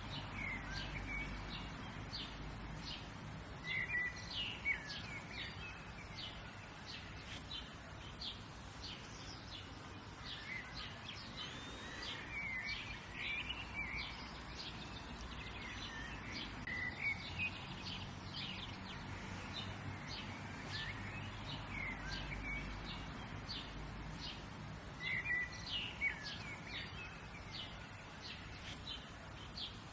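Several songbirds chirping and singing, short repeated chirps with a few louder warbling phrases, over a steady low background rumble.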